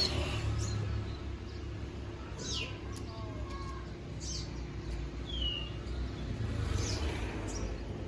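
Kolibri ninja (konin) sunbird calling: a series of short, sharp, high chirps that sweep downward in pitch, about a second or so apart, over a steady low background hum.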